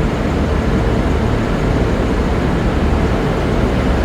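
Loud, steady rumble of V/Line regional diesel trains idling at the platform.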